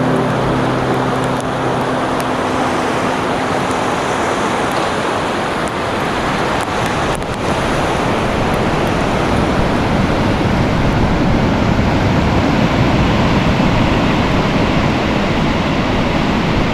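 Heavy ocean surf rushing and breaking in a loud, continuous roar of water. A vehicle's steady engine hum lies under it in the first few seconds and fades away.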